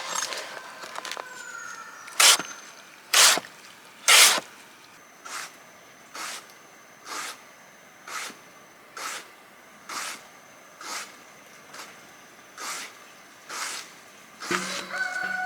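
Short noisy strokes repeated about once a second, the first three loudest and the rest softer and even, like a tool or object being worked by hand. A faint high steady tone runs behind them.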